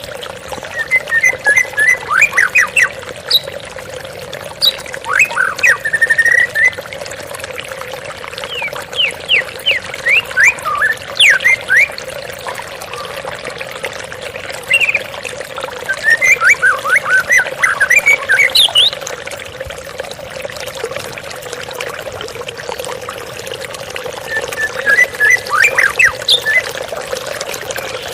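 Steady gurgle of a waterfall's running water, with a white-rumped shama (murai batu) singing over it in bouts of quick whistled phrases that sweep up and down in pitch, five bouts a few seconds apart.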